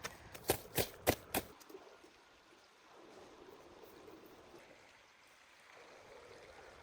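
Four sharp knocks in quick succession, then a faint, steady rushing noise.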